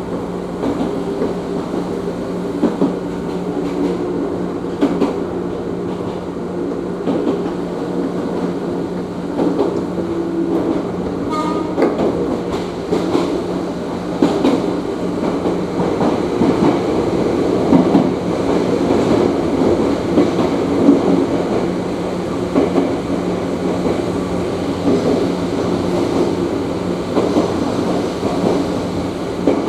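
Ohmi Railway electric train running, heard from inside the car: wheels clattering over rail joints over a steady hum and rumble.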